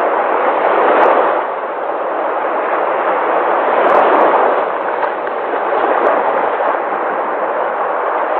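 Sea waves breaking and washing ashore in a continuous rush of surf, swelling louder about a second in, again around four seconds and near six seconds.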